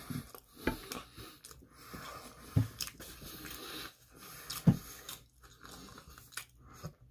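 Close-miked chewing of a mouthful of pizza: soft wet mouth sounds, with three sharper crunchy clicks about two seconds apart.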